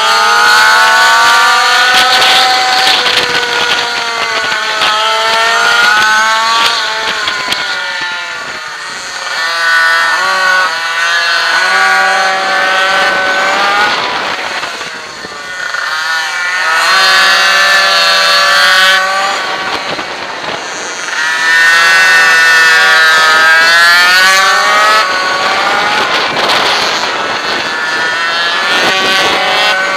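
Minimoto's small two-stroke engine heard close up from on board, revving up in long rising sweeps and dropping back repeatedly as the rider accelerates and backs off through a lap.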